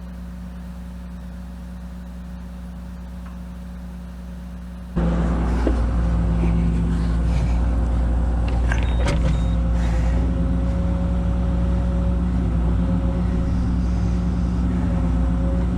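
Kobelco SK250 LC excavator's diesel engine running steadily. About five seconds in it suddenly becomes much louder, as if throttled up or heard from closer, with a few metal clanks.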